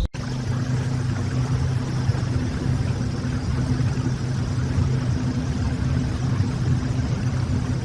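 Motorboat engines running steadily: a low, even hum over rushing water noise. The sound starts abruptly right after a brief dropout.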